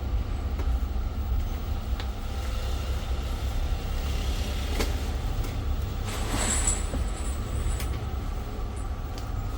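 Steady low rumble of a moving vehicle, with a brief hiss and a high thin tone about two-thirds of the way through.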